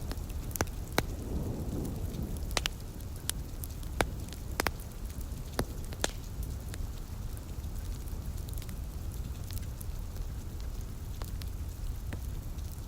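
Wood fire crackling with sharp pops, many in the first six seconds and fewer after, over steady rain hiss and a low continuous rumble like distant thunder.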